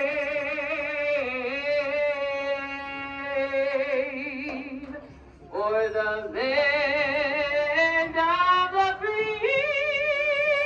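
A single voice singing long, held notes with a wavering vibrato, with no other instrument showing. The notes change pitch a few times, and there is a short break about five seconds in.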